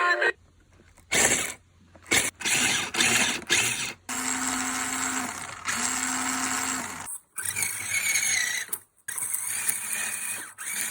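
Small electric motor and gearbox of a children's ride-on motorbike whirring, first in several short bursts and then in longer runs of a few seconds with a steady whine. The whine dies away at the end of each run.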